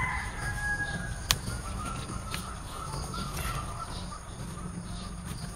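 Faint, drawn-out bird calls over a steady low outdoor rumble, with a single sharp click about a second in.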